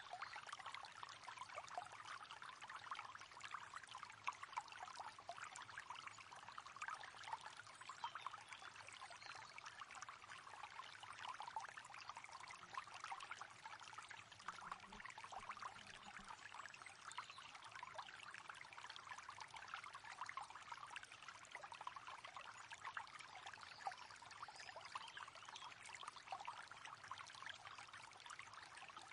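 River water flowing steadily, a continuous babbling and trickling rush.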